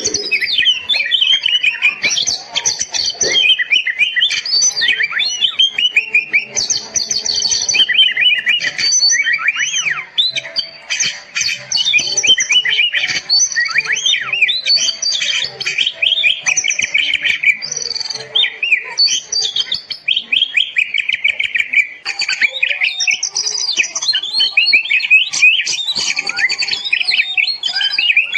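Oriental magpie-robin (kacer) singing a fast, unbroken, varied song of whistles and chirps.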